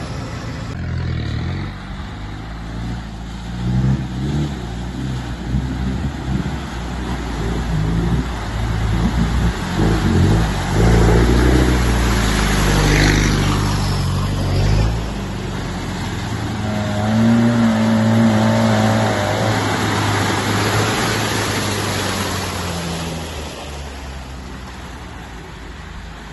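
Off-road SUV engine revving under load in mud, its pitch rising and falling, loudest around the middle.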